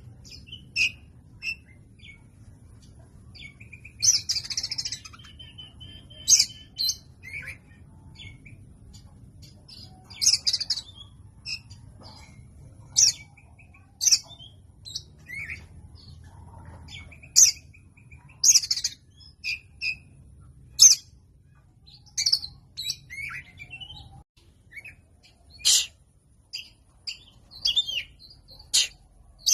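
Oriental magpie-robin (kacer) calling: short, sharp, high chirps and brief warbled phrases at irregular intervals, with a faint low hum underneath that stops about three-quarters of the way through.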